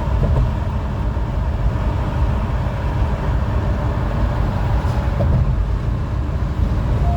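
Honda Elevate driving at speed: a steady low rumble of engine and road noise.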